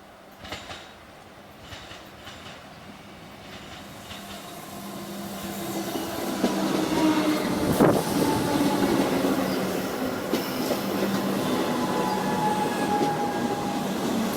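Metro Trains Melbourne electric suburban train growing louder over the first half and then running loud and close, with wheels clicking over rail joints, a steady hum and whine, and a sharp clunk about eight seconds in.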